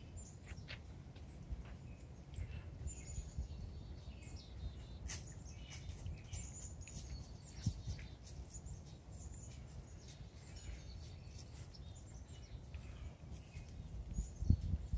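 Faint songbird chirps over low outdoor background noise, with a few soft clicks.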